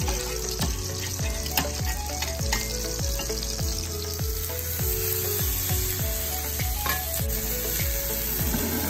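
Lamb chops sizzling in a hot cast iron pan, under background music with a steady thumping beat.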